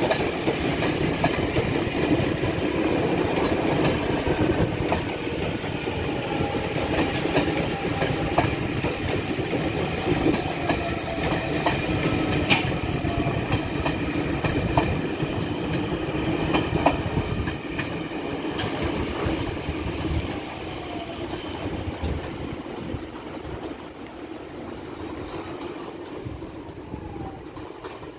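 Taiwan Railways Fu-Hsing passenger train running as an empty stock movement, its wheels clattering over the rail joints with some squealing. The sound fades away over the last several seconds.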